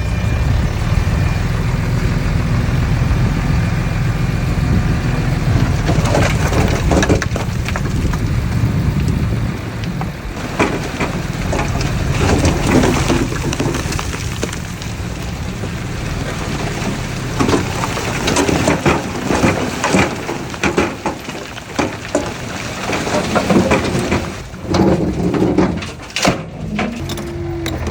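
Heavy earthmoving machinery at work: an engine runs with a steady low rumble that fades after about ten seconds. Irregular crunching and scraping of soil and stones comes in about six seconds in and grows busier toward the end.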